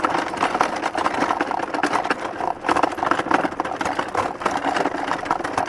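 Small wooden hand cart pulled along a bumpy dirt road, its wheels and boards rattling and banging in a dense, continuous clatter.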